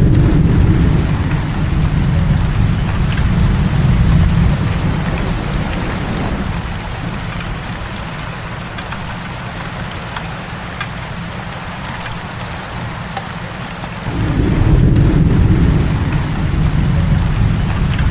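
Heavy rain falling steadily, with long low rumbles of thunder: one rolling through the first several seconds and fading, and another starting about fourteen seconds in.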